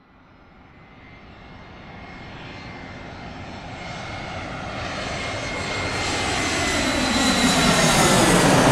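Airplane approaching. Its engine noise, with a faint high whine, swells steadily from silence to a peak near the end.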